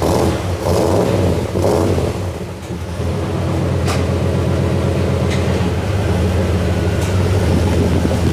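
Car engine running just after being started, revved unevenly a couple of times in the first two seconds, then settling into a steady idle.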